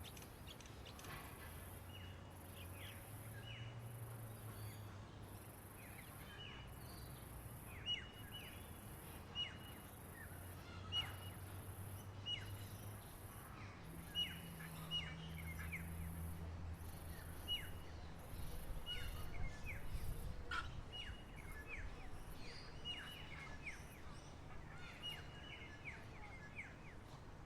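Wild birds chirping: many short, sharp notes that drop quickly in pitch, some coming in quick runs. A very high buzz pulses about once a second until about two-thirds of the way through, over a low steady rumble.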